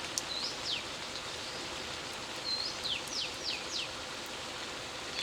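Steady hiss of falling rain, with a bird calling twice: each phrase a short rising note followed by quick downward-sweeping whistles.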